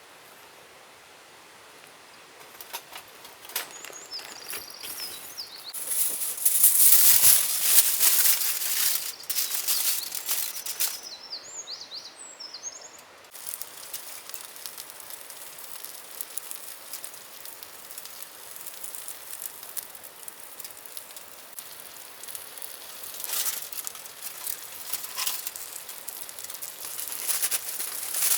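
Close rustling and light clicking from food being handled and prepared, loudest in a dense stretch a few seconds in. Birds give short chirping calls twice behind it.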